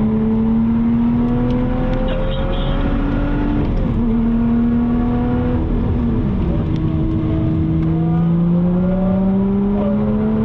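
High-performance car engine under hard acceleration on a race track, its pitch climbing steadily, with two gear changes where the pitch drops, about four and six seconds in.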